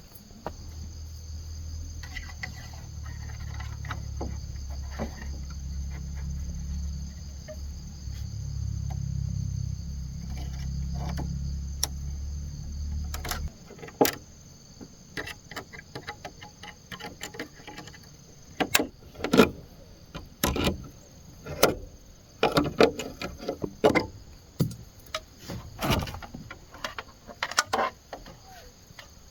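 Insects chirring steadily throughout. A low hum runs for the first half and stops suddenly; after that come irregular sharp knocks and clatter of wood being worked.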